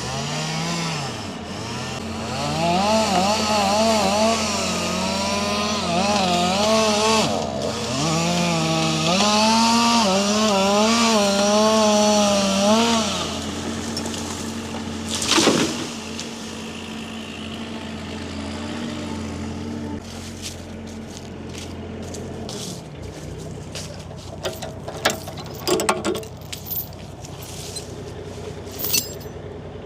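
Chainsaw felling an elm, its engine pitch rising and falling as it bogs under load in the cut for about thirteen seconds, over a steady engine hum. A single sharp crack comes about fifteen seconds in, then a few scattered knocks near the end.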